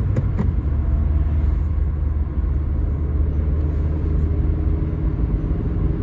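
Toyota Carina E's 1.6-litre 16-valve four-cylinder petrol engine running at a steady note while the car drives, with low road rumble and a couple of light clicks just after the start.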